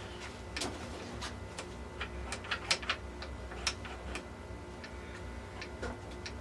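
A string of irregular light clicks and taps from gearbox parts being handled at the bench, most of them bunched in the middle, over a steady low hum.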